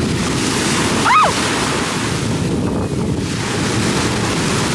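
Ocean surf washing in, with wind buffeting the microphone. A brief high cry rises and falls about a second in.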